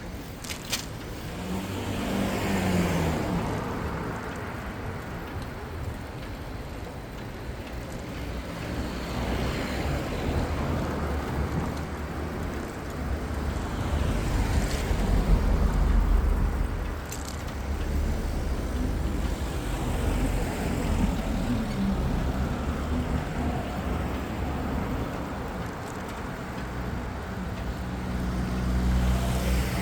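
City street traffic: cars and other motor vehicles running and passing, with a low rumble that swells loudest about halfway through.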